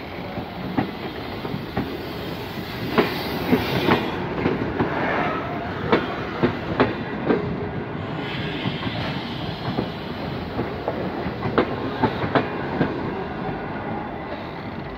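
Passenger coaches of a departing long-distance train rolling past, the wheels clacking over rail joints in irregular pairs and clusters of sharp clicks over a steady rumble.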